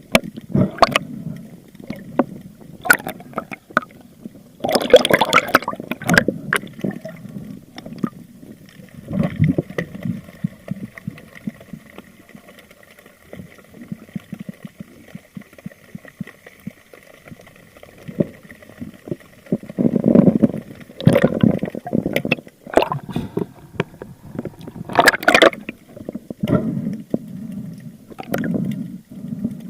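Water sloshing and gurgling in irregular surges, with sharp knocks and clicks. A faint steady whine runs through the middle for several seconds.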